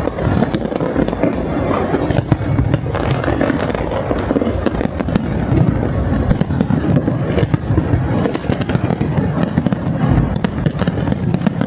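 Large fireworks display: a dense, continuous barrage of bangs and crackle with no break.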